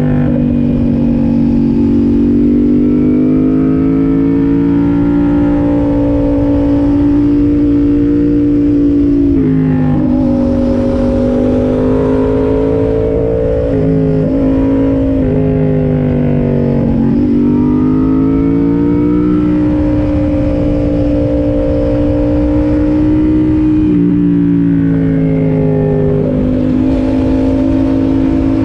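Yamaha MT-07's 689 cc parallel-twin engine running under way. Its pitch climbs and falls and drops sharply several times as the rider changes gear and works the throttle, over a steady low rush of wind.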